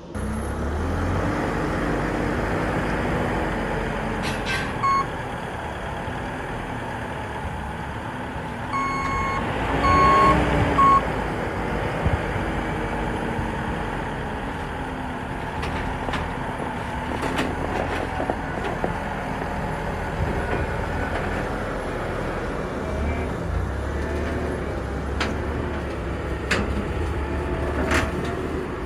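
Tracked skid steer's diesel engine running and revving up and down as the machine drives up onto a trailer, with a few sharp knocks later on. Short electronic warning beeps sound once about five seconds in and a few more times around ten seconds in.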